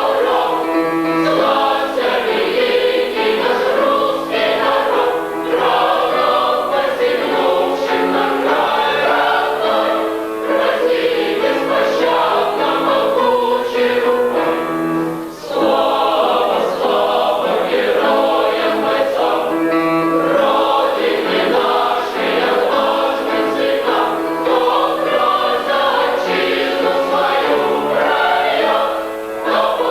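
A boys' and young men's choir singing in several parts, with long held chords and a brief break between phrases about halfway through.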